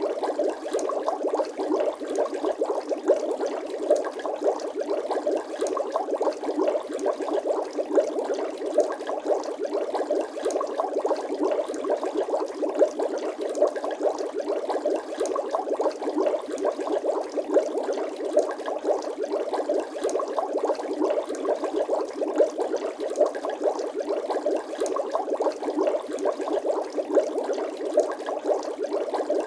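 Bubbling water sound effect: a steady, dense stream of small bubble pops and gurgles that does not let up.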